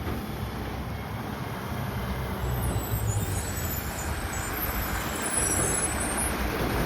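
Mack LR side-loader garbage truck running, its engine rumbling steadily and growing gradually louder.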